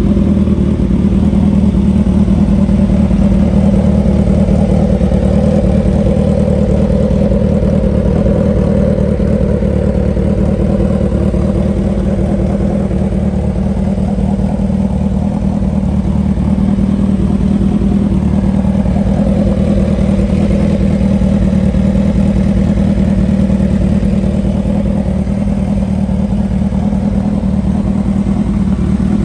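2008 Suzuki Hayabusa's 1340 cc inline-four engine idling steadily.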